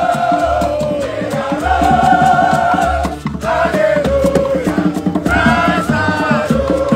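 Live ogene band music: several voices singing long held notes together over a pulsing bass and a steady percussion beat, with a short break in the singing about three seconds in.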